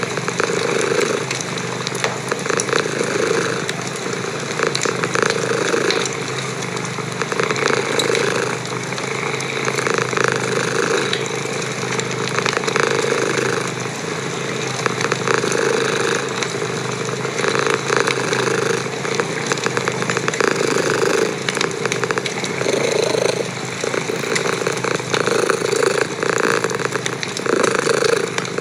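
A cat purring close up: a steady rumble that swells and eases with each breath, every second or two. A fireplace fire crackles with scattered small pops.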